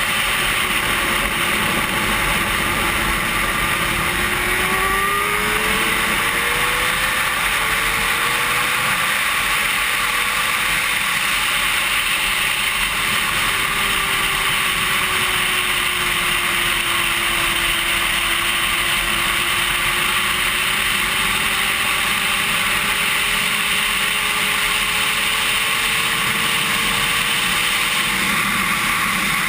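Sport-bike engine at racing speed, its note sweeping up and down with the revs, under a heavy rush of wind on the microphone.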